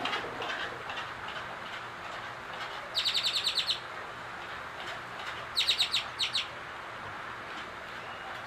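A songbird calling in two quick runs of sharp, rapidly repeated chirps, one about three seconds in and another a couple of seconds later, over a steady hiss.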